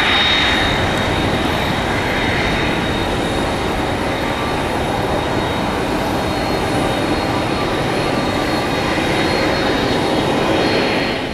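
Twin turbofan engines of a KC-46A tanker in flight on its approach circuit: a steady, loud jet rush with a thin high whine running through it.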